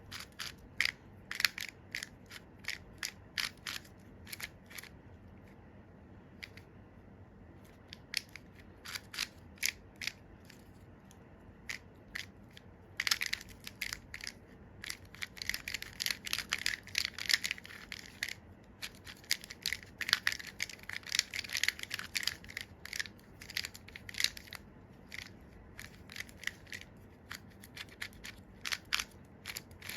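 Angstrom MGC Square-1 puzzle being turned by hand, its plastic layers clicking. Scattered single clicks build into fast flurries of rapid clicking, with short pauses between bursts.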